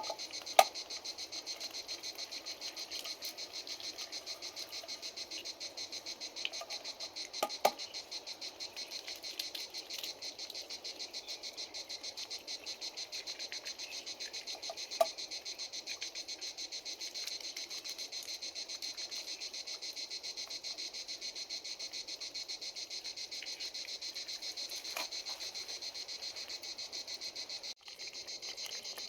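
Steady chorus of crickets trilling, a dense high-pitched pulsing that never lets up. A few sharp pops stand out above it, the loudest about half a second in, and the sound drops out briefly just before the end.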